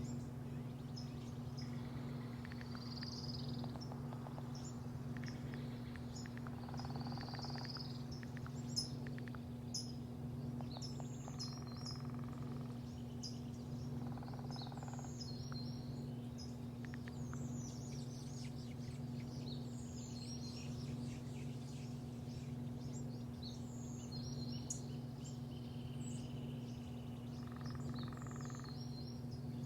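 Small birds chirping and twittering repeatedly over a steady low mechanical hum.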